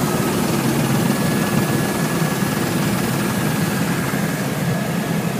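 Helicopter engine and rotor running steadily, with a faint steady whine above the drone, as heard from inside the cabin.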